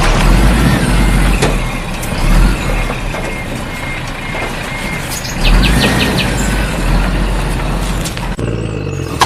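A heavy vehicle's engine running with a steady deep rumble, with a few bird chirps over it; the sound changes abruptly shortly before the end.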